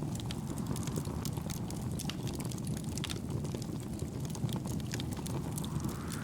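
Wood fire crackling, with irregular sharp pops of burning firewood over a steady low rumble.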